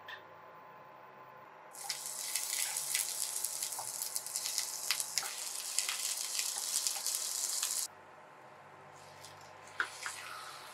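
Sliced shallots sizzling in hot oil in a pan, a steady hiss with scattered crackles that starts and cuts off abruptly. Near the end, a couple of short knocks as raw chicken pieces are tipped into the pan.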